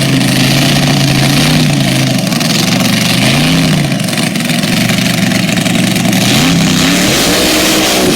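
Monster truck engine running very loud, a steady drone that revs up and back down about three seconds in and climbs again near the end.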